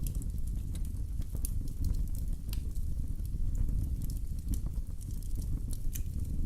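Wood fire in a fireplace crackling: scattered sharp pops and snaps at irregular intervals over a steady low rumble of the flames.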